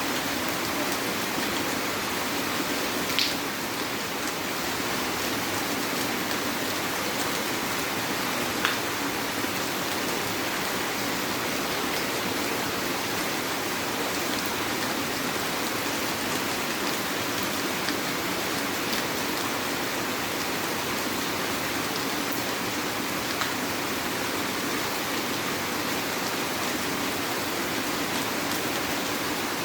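Heavy rain falling steadily, with a few sharper, louder drips standing out, the clearest about 3 seconds and 9 seconds in.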